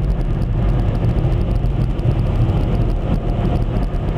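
Automatic car wash machinery running: a loud, steady low rumble with no clear breaks.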